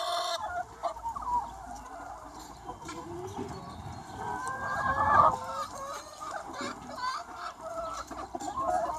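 A large flock of free-range hens clucking and calling over one another, with one louder drawn-out call about five seconds in.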